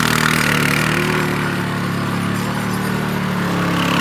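ATV (quad) engine running while towing an engineless go-kart across grass. It eases off slightly in the middle and picks up again near the end.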